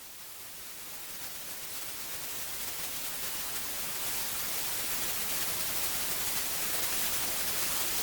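A steady hiss of static-like noise, strongest in the treble, fading in from silence and slowly growing louder.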